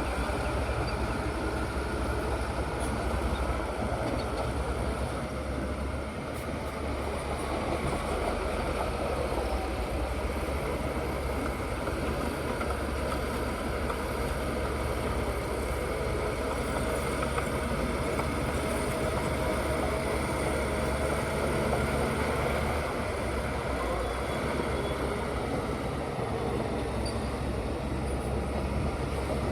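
Bulldozer's diesel engine running steadily, with a deep rumble and a faint wavering whine above it.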